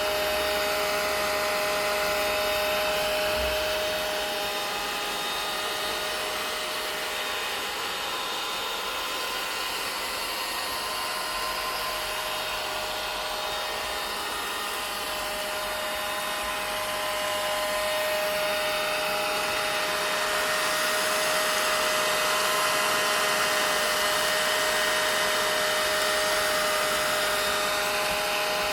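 Vacuum cleaner running steadily: a continuous rush of air over a constant motor whine, the loudness easing off a little in the middle and swelling again later.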